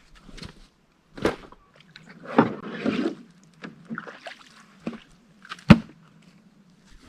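Canoe being brought in: sharp hollow knocks of the paddle and hull, with scraping and splashing, the loudest knocks about a second in and near the six-second mark.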